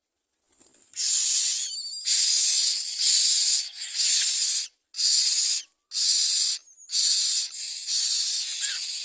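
Common myna nestlings giving harsh, hissing calls in repeated bursts of about a second each, with short gaps between them. The calls start about half a second in.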